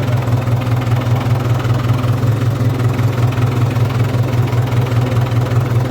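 Tractor engine running steadily, a low even drone with a fast regular pulse.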